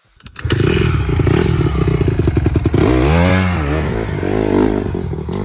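Honda CRF150R dirt bike's single-cylinder four-stroke engine revving hard, its pitch climbing and falling as the throttle is worked. It comes in suddenly about half a second in.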